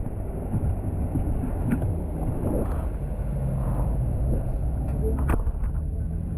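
Road vehicle running: a steady low engine hum with road noise, soft passing swells and a few scattered clicks.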